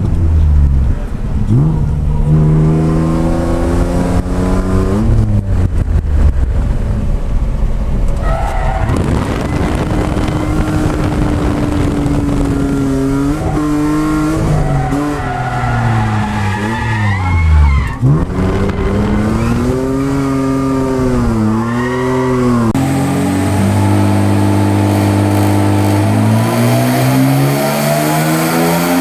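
Ford Falcon FG ex-taxi drift car with extractors, engine revving hard and the pitch swinging up and down with throttle and gear changes, with tyre squeal from drifting. About three-quarters in it changes to a steady rising rev under acceleration.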